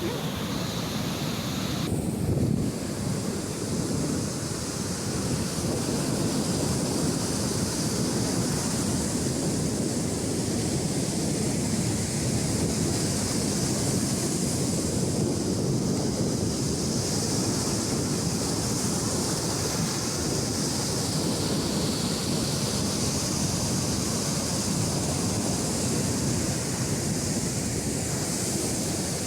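Sea waves washing steadily onto a sandy beach, a continuous surf rush.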